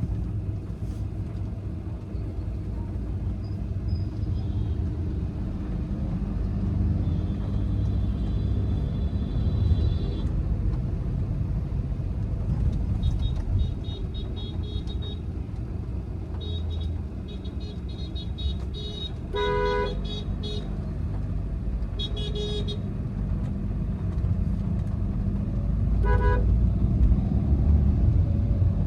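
Steady road and engine rumble inside a moving Volkswagen Vento 1.5 TDI, with a few short car-horn toots: the loudest about two-thirds of the way through and again near the end, and fainter high-pitched horn beeps earlier.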